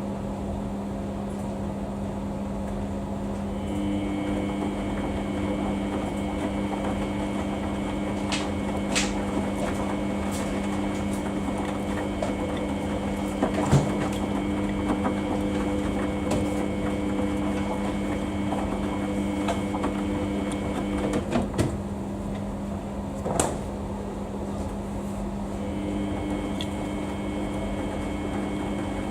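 Samsung washing machine running mid-cycle: a steady motor hum with a higher whine over it. The whine drops out for a few seconds about three-quarters of the way through, then starts again. A few light clicks and knocks come through the hum.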